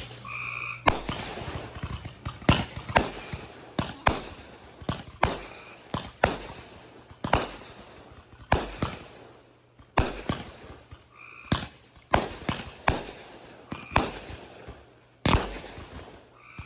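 Fireworks going off: an irregular series of sharp bangs, roughly one or two a second, some with a brief crackle or echo after them.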